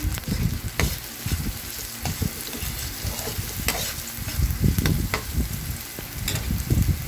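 Chopped onion, garlic and ginger sizzling in hot oil in a wok, with a steady hiss. A spatula scrapes and knocks against the pan several times as they are stirred.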